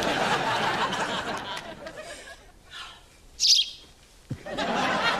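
Studio audience laughing, then a single short, shrill bird chirp about three and a half seconds in, followed by another swell of audience laughter near the end.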